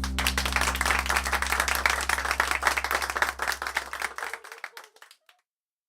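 Applause: many hands clapping fast and densely over a held low note, thinning out and dying away about five seconds in.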